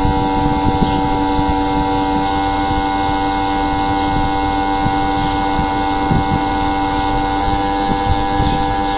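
A steady electrical hum made of several unchanging tones, with a faint crackle underneath.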